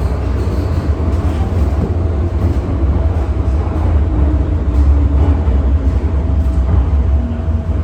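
MTR Tsuen Wan Line M-Train running between stations, heard from on board: a steady, loud low rumble of the wheels and running gear, with a faint steady tone above it.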